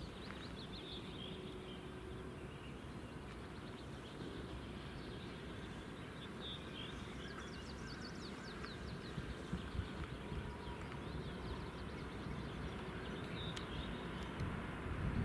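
Songbirds singing in short chirping phrases, repeated every few seconds, over a low steady rumble that grows slightly louder near the end.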